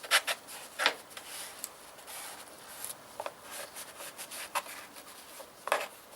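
Cloth wiping small metal parts with paint-prep degreaser, degreasing them before painting: a run of irregular scuffing strokes, a few of them louder.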